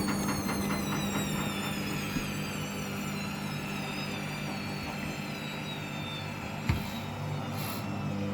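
Hoover washing machine's motor whine falling slowly in pitch as the drum spins down, over a steady low hum, with one short knock near the end: a first spin cut short by suds lock.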